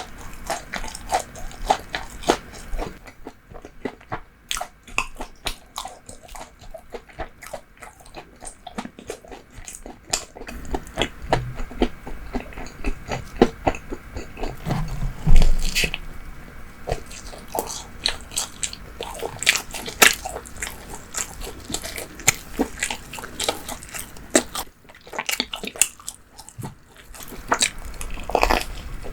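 Close-miked eating: bites and steady chewing of bread and fried pastry, with many small crackles and wet mouth sounds and a few louder bites.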